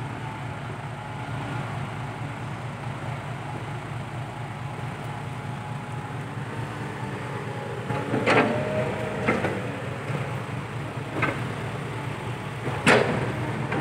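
Kobelco SK120 Mark III excavator's diesel engine running steadily while digging. In the second half there are four short, sharp clanks or squeaks, the loudest near the end.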